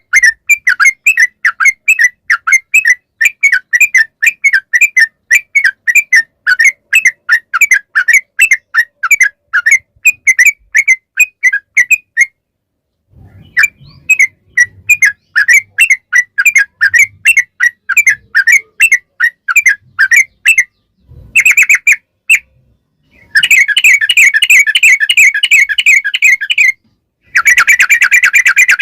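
Yellow-vented bulbul (trucukan) singing a long, rapid string of short chirping notes, about three a second. The run breaks off for about a second several times and comes back denser near the end.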